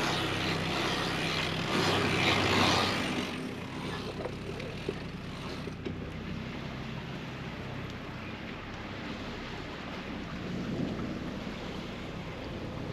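Wind rushing over the microphone with water noise aboard a sailing catamaran under way, loudest for the first three seconds or so and then steadier, over a faint steady low hum.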